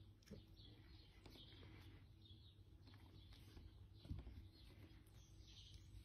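Faint chirping of birds, a scatter of short chirps, with light clicks and a soft thump about four seconds in.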